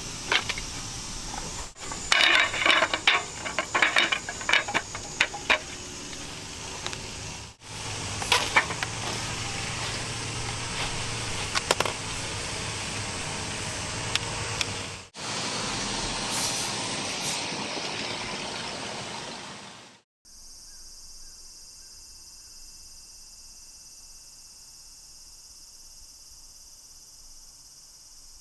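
Clattering and handling noises in short cut-together clips. About two-thirds in, after a cut, a steady insect chorus takes over.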